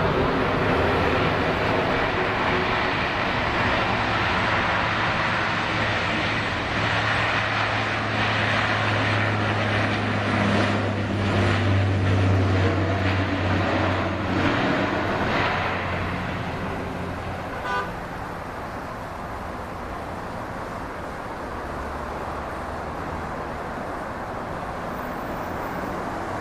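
Jet airliner engines running loud and steady with a low drone, fading gradually after about 16 seconds as the aircraft moves away.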